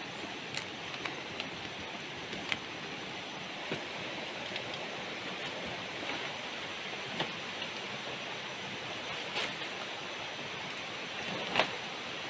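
Heavy tropical rain falling steadily, with scattered sharp clicks, the loudest near the end.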